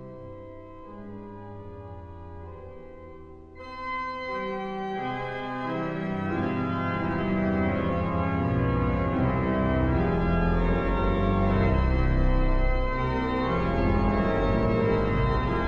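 Newly refurbished sanctuary pipe organ playing sustained chords. About three and a half seconds in it grows louder and brighter, and deep bass notes join a few seconds later, building into a full sound.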